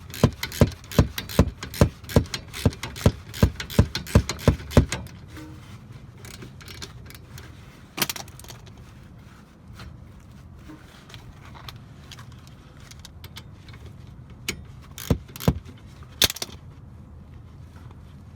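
A quick run of sharp clicks, about three a second for some five seconds, then a single click and, near the end, a few more clicks, from hand work on a car's front brake.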